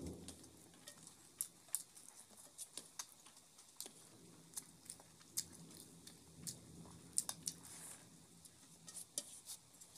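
Chewing and mouth smacks of a person eating rice and curry by hand, with irregular sharp clicks scattered throughout.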